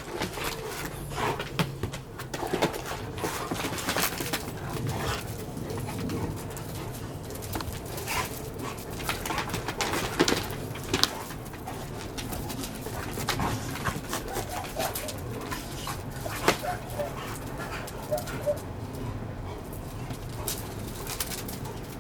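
Tosa dog and pit bull-type dogs play-fighting: low dog vocalizations with scuffling and many sharp clicks and knocks, and a few short whines near the end.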